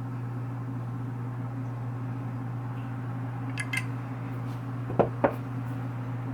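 A kitchen appliance humming steadily, with a couple of light clicks about three and a half seconds in and two sharp knocks about five seconds in.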